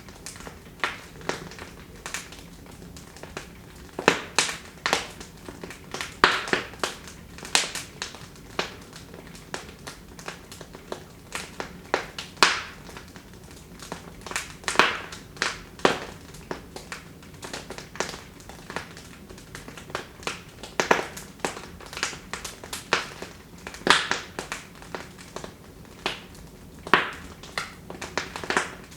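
Wood fire burning in a fireplace, crackling with irregular sharp pops and snaps, some in quick clusters, over a soft steady hiss.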